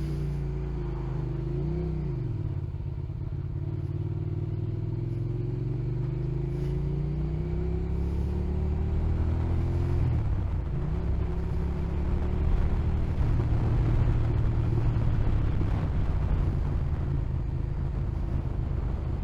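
Motorcycle engine pulling away under load, its pitch climbing slowly through a gear, dropping sharply at a shift about ten seconds in, then climbing again. Road and wind noise run underneath.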